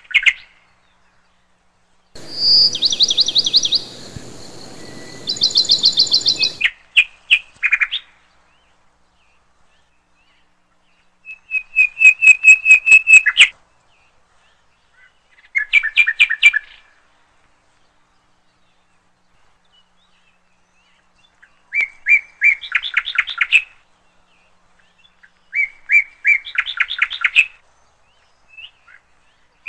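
Small songbirds chirping in short bursts of quick, repeated notes, each burst a second or two long, with silent pauses between them.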